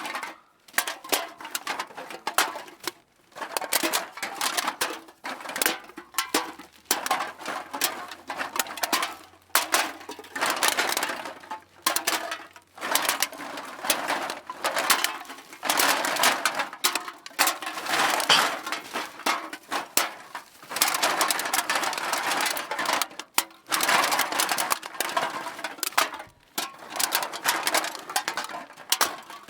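Cans being dropped into a bag: a busy, irregular metallic clatter and rustle, with a few brief pauses.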